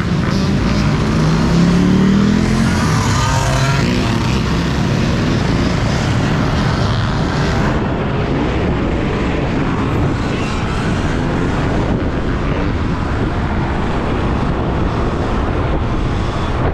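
Wind rushing over the microphone while riding a Sur-Ron electric dirt bike. In the first few seconds a motor vehicle's engine rises in pitch, then fades into the steady wind and road noise.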